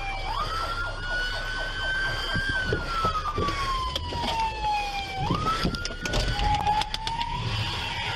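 Police car siren wailing, its pitch sweeping up quickly and then falling slowly in long cycles, with a few sharp knocks about two-thirds of the way through.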